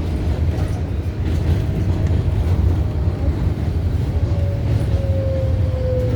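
R188 subway train running between stations: a steady low rumble of wheels on rail with a faint motor whine that dips slightly in pitch near the end.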